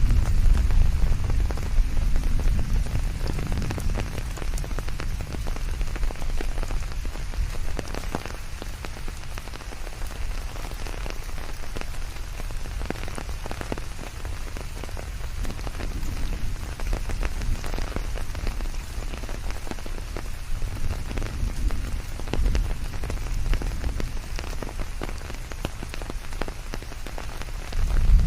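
Steady rain falling on foliage, with many separate drops heard through an even hiss. A low rumble sits under it, strongest in the first few seconds.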